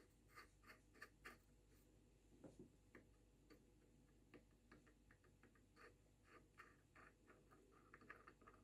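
Near silence with faint, irregular light clicks of small metal engine parts being handled, a few a second and coming quicker near the end.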